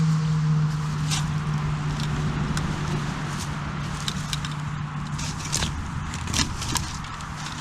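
A low vehicle drone from the nearby A14 that slowly falls in pitch and fades about five seconds in, over a constant hum of road traffic. Scattered crackles and snaps of footsteps and handling on dry twigs and leaf litter run through it.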